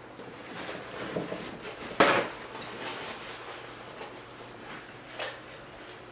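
Close-up chewing and mouth sounds of a person eating, with one sharp knock about two seconds in.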